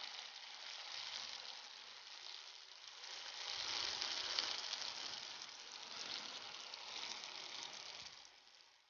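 Banana-flower vadas deep-frying in hot oil, with a faint, even sizzle that swells a little midway. The bubbling has settled, the sign that the fritters are cooked through. The sizzle cuts off suddenly near the end.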